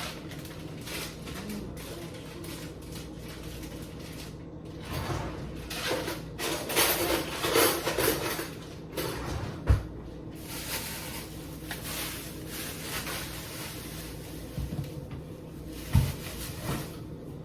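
Groceries being put away in a kitchen: cupboard doors opening and closing, items rustling and being set down, with sharp knocks about ten seconds in and again near the end.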